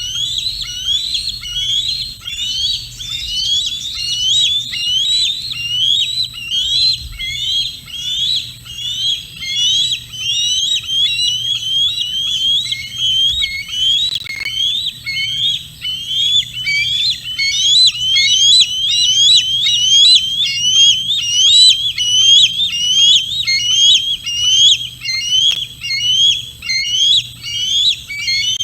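Juvenile bald eagle calling: a continuous, insistent series of high, upslurred whistled chirps, two or three a second, getting louder in the second half.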